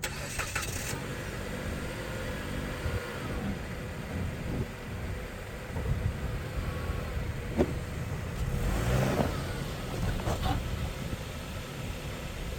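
A car's engine running, with the revs rising briefly about six and again about nine seconds in, as the car is driven up onto oil-change ramps.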